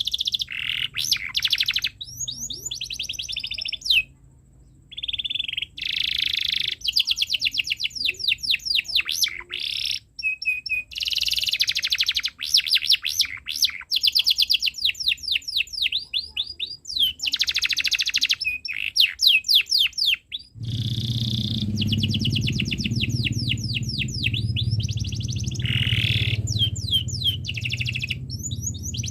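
Domestic canary singing long runs of fast repeated chirps and trills, each run made of quick falling notes, with brief pauses between runs. About two-thirds of the way through, a steady low hum starts beneath the song.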